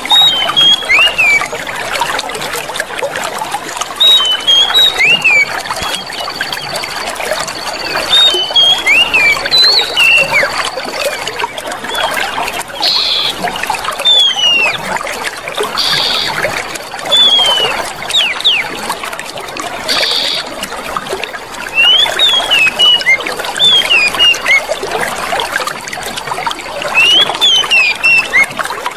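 Water trickling and splashing steadily in a small stream. Over it come clusters of short whistled bird notes, many sliding downward, every few seconds.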